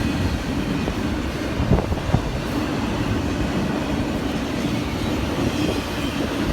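A train rolling past, a steady rumble of wheels on rail with two sharp clanks about two seconds in.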